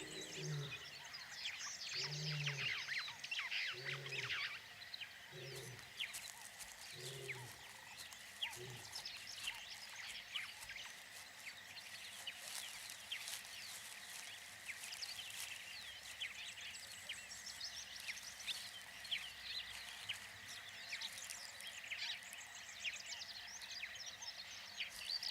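A distant lion calling: a run of six low, evenly spaced grunts about a second and a half apart, ending about nine seconds in. Birds chirp throughout over a steady high insect whine.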